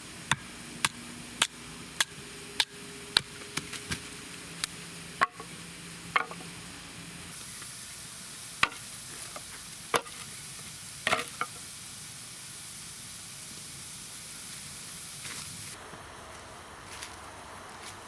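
Cooking at a camp meal: a run of sharp taps, evenly spaced at first and then scattered, like a utensil working in a pan. About seven seconds in, food starts sizzling in the pan; the sizzle runs for about eight seconds and stops abruptly.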